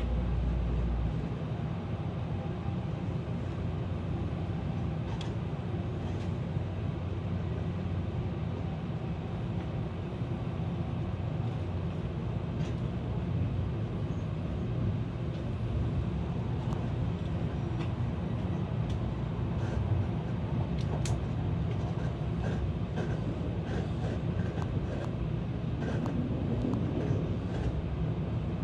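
Tokaido Shinkansen train running at speed, heard from inside the car: a steady rumble and rush of wheels on rail and air, with a few faint clicks. The deepest part of the rumble drops off about a second in.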